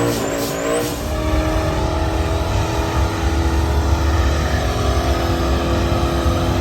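A loud car engine running at a car meet, with a deep steady rumble. In the first second, rising high-pitched whines repeat with the revs, then it settles to a steady run.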